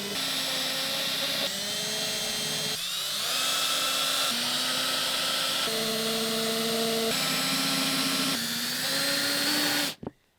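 Power drill running with a steady motor whine whose pitch shifts in steps every second or so, sometimes rising as it speeds up, then stopping abruptly near the end.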